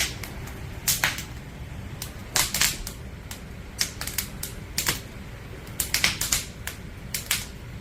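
Firewood crackling in a campfire: irregular sharp snaps and pops, sometimes several close together, over a low steady rumble.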